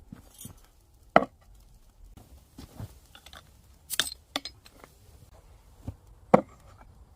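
Scattered sharp knocks and clinks of utensils and dishes, about half a dozen separate hits, the loudest about a second in and again near the end.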